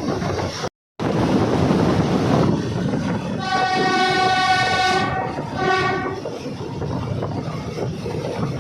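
Train running with steady rumble and car noise. About three and a half seconds in, the diesel locomotive's horn sounds one long blast, then a short one.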